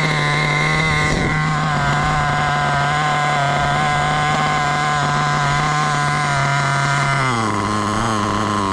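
Kyosho KE21SP .21 nitro engine in an HPI Bullet buggy running at a steady high pitch, then dropping sharply to a lower pitch about seven seconds in as it comes off the throttle.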